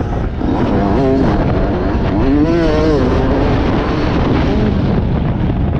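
Motocross bike engine running hard, its pitch rising and falling again and again as the throttle opens and closes, over a dense rumbling noise.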